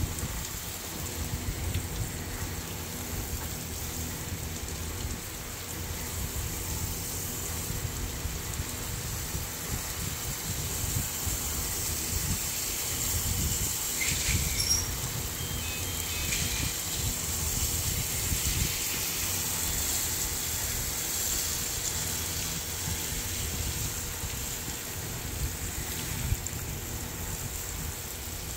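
Water spraying steadily from a hose nozzle over potted succulents, an even hiss of spray and drips, with a few brief high chirps about halfway through.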